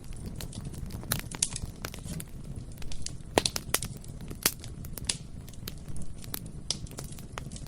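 Bonfire burning with a steady low rumble and irregular crackling and sharp pops of burning wood, the loudest pops a little past the middle.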